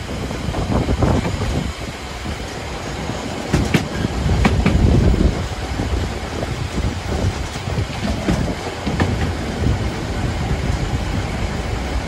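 Train running along the track: a steady rumble with a few sharp clicks about four seconds in.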